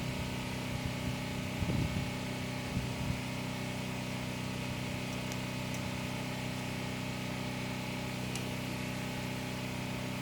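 Steady engine hum: a constant drone that holds one pitch without change.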